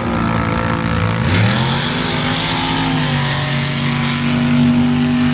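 A sand drag vehicle's engine revving up about a second in, then holding at high revs and beginning to ease off near the end.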